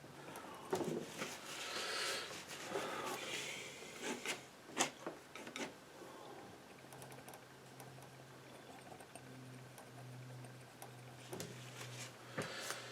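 Metal painting knife scraping and dabbing oil paint, with rasping strokes in the first few seconds and a few sharp clicks and taps of the knife. A faint low hum sets in about halfway.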